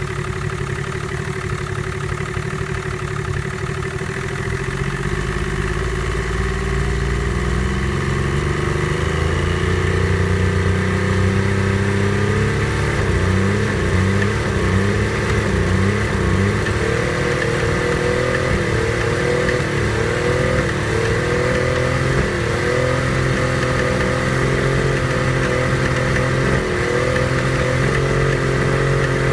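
Chrysler 70 hp two-stroke outboard motor running during a cold-start warm-up on old, stabilized gas. Its speed climbs about a quarter of the way in, then wavers up and down unevenly.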